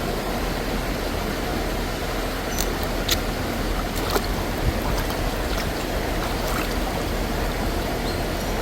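Steady rushing noise, like running water, with a few faint clicks and taps.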